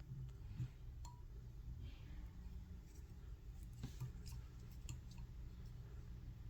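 Faint, scattered small clicks and ticks from hands and tools working thread and dubbing at a fly-tying vise, over a low steady room hum.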